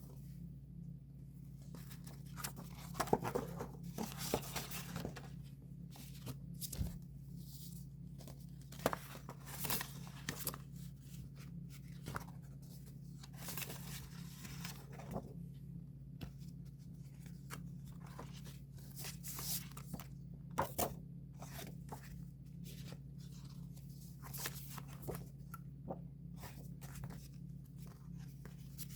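Album packaging being opened by hand: irregular tearing, crinkling and small clicks of plastic wrap and paper, over a steady low hum.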